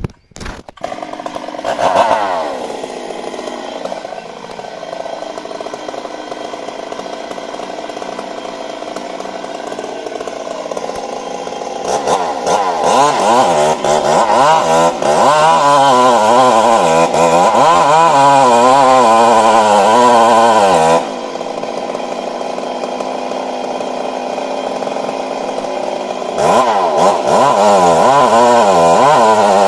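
Stihl MS 382 two-stroke chainsaw running throughout. It revs up about two seconds in and settles to a lower steady speed. From about halfway through it runs at high revs with its pitch wavering up and down, as when cutting into wood, drops back a little before two-thirds of the way, then revs high again near the end.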